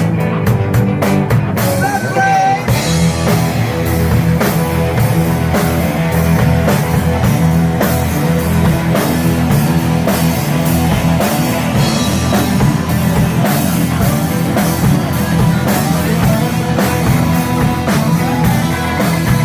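Rock band playing live: a drum kit and guitar in an instrumental passage, the drumming getting fuller about two seconds in, with bent guitar notes around then.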